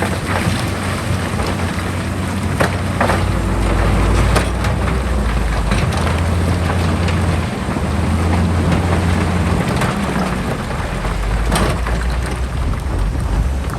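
Heavy diesel earthmoving machinery running steadily with a low drone, over a constant crackling rush, with a few sharp knocks.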